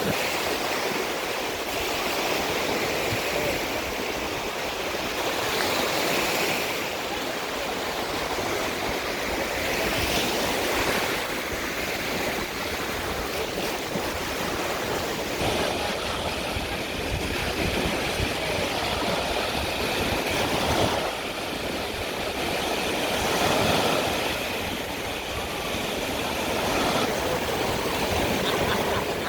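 Sea waves washing onto the shore, a steady rush of surf that swells every few seconds.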